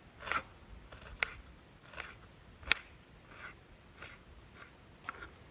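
Fresh kudya (Holarrhena pubescens) pods being finely chopped with a blade, about nine short, crisp cuts at an uneven pace of one or two a second.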